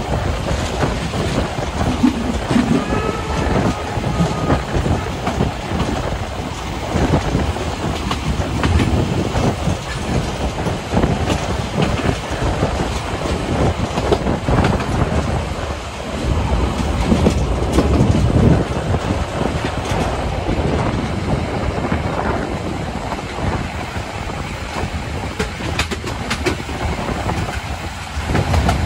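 Narrow-gauge train running along the track: a steady rattle and clatter of wheels and carriages over the rails.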